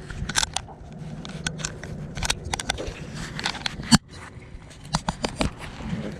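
Irregular clicks, knocks and scrapes, the loudest about four seconds in, over a faint steady low hum.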